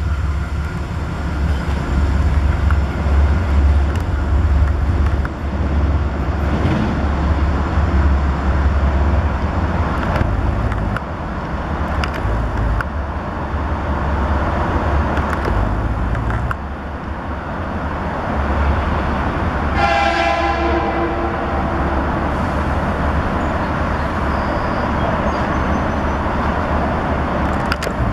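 Trains approaching the platform with a steady low rumble and a few sharp clicks. About two-thirds of the way through, a train horn sounds once, a multi-tone chime held for about a second.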